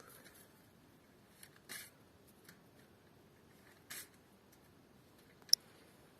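Quiet background with two brief soft rustles and one sharp click about five and a half seconds in.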